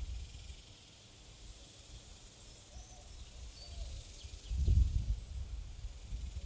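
Small songbirds chirping and twittering faintly with short, high calls, over low gusts of wind buffeting the microphone that are loudest about four and a half seconds in.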